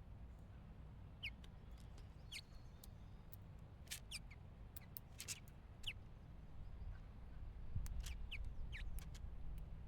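House finches giving short, high chirps that slide downward, a dozen or so scattered irregularly, with a few quick clicks among them, over a faint steady low rumble.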